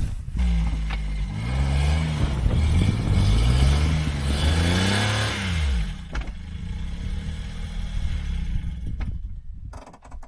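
Daihatsu Hijet kei van's small 660 cc three-cylinder engine rising and falling in pitch several times, then settling to a steadier idle about six seconds in.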